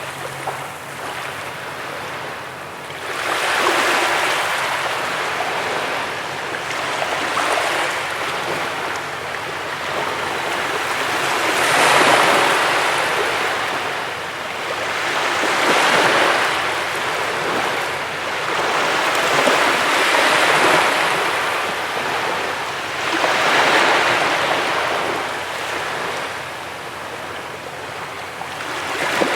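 Waves breaking and washing up a beach, the surf rising and falling in surges about every four seconds.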